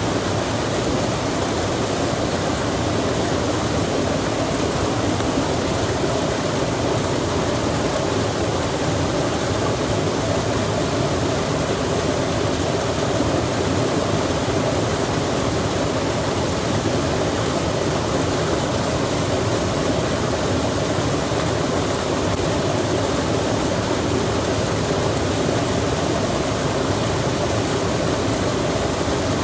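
Steady, even rushing noise of a mountain-and-forest soundscape, unchanging throughout, with no distinct calls, knocks or other events.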